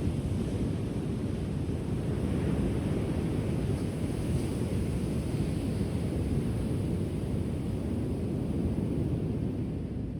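Ocean surf washing onto the shore, a steady low rush that builds in the first couple of seconds, holds, and eases near the end.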